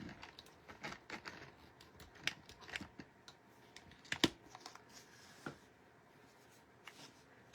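Faint scattered clicks and light rustling as a mini sewing machine and the paper under its foot are handled, with one sharper click about four seconds in. The machine's motor is not running.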